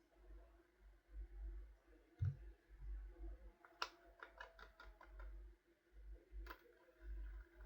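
Faint clicks and taps of paint cups and tools being handled while mixing paint, with a soft knock about two seconds in and a quick run of about six ticks around four seconds in.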